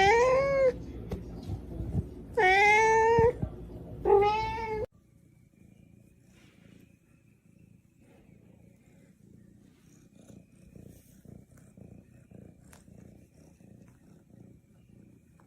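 A cat meowing loudly three times, long drawn-out calls that rise and fall in pitch. After a sudden cut about five seconds in, a cat purring faintly.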